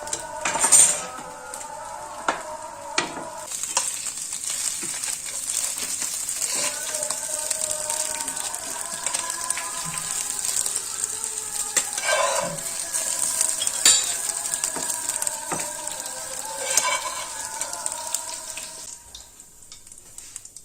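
Food frying in a hot pan: a steady sizzle sets in a few seconds in and dies away near the end, with a few sharp knocks of a utensil against the pan.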